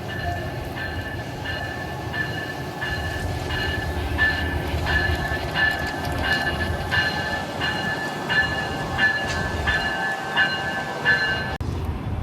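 Bell on a standing Amtrak passenger train ringing steadily, a strike about every 0.7 seconds, over the low rumble of the idling diesel locomotive. The bell cuts off abruptly shortly before the end.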